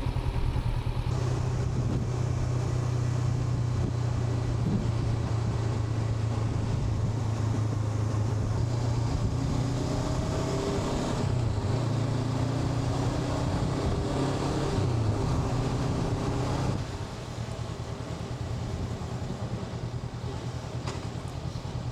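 Honda NX500's parallel-twin engine running as the motorcycle is ridden, a steady hum with some shifts in pitch in the middle; it gets quieter about 17 seconds in, as if the throttle is eased off.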